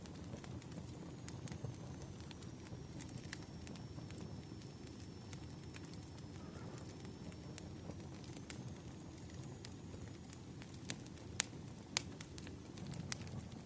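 Wood fire crackling: irregular small pops and snaps over a steady low rumble, with a couple of sharper pops near the end.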